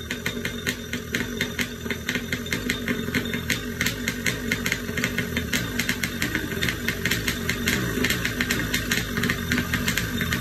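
Kawasaki 650 X2 two-stroke twin-cylinder engine running at low speed on a test run, with a steady engine note and a fast, uneven crackle of exhaust pulses.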